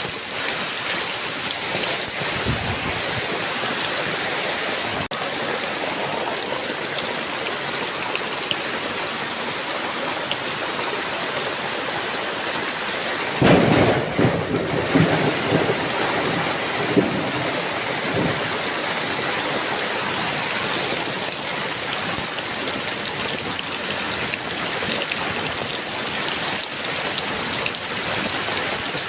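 Heavy rain falling steadily. About halfway through, a clap of thunder breaks out and rumbles off over a few seconds, then the rain goes on alone.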